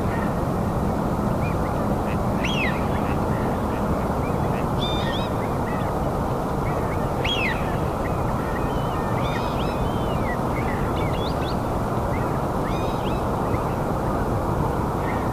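Birds giving short chirping calls, a few every second or two, over a steady loud noise.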